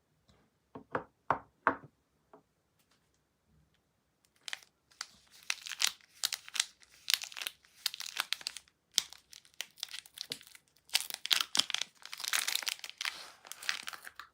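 A few light taps, then a soap bar's wrapper being torn open and crinkled, in dense crisp rustling that pauses briefly partway through and picks up again.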